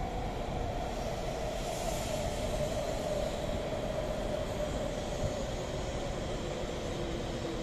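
Taiwan High Speed Rail 700T train running past at low speed: a steady rumble of running noise with a whine that falls slightly in pitch.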